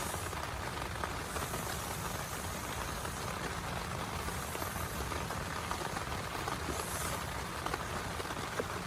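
Steady rain with many small, close drop ticks scattered through it.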